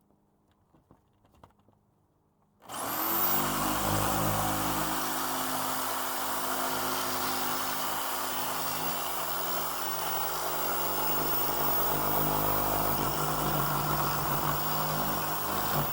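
Electric power saw cutting: after a few faint clicks it starts about three seconds in with a rising whine, then runs steadily under load through the cut.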